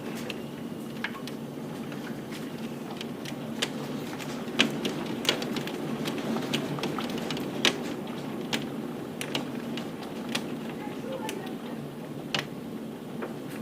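Rain falling steadily with hailstones striking a hard surface, heard as irregular sharp ticks and knocks over the rain's hiss, a few louder strikes near the middle.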